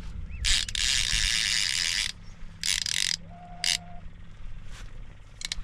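Fishing reel drag buzzing in several bursts as a hooked big fish pulls line off against it: the longest about a second and a half near the start, then shorter ones. A low steady hum runs underneath.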